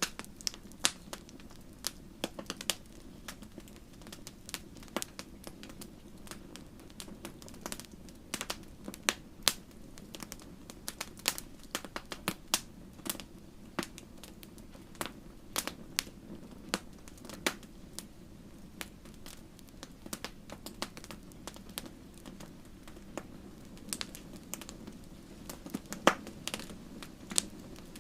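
Wood fire in a fireplace crackling, with irregular sharp pops and snaps, a few of them louder, over a steady low rush of the flames.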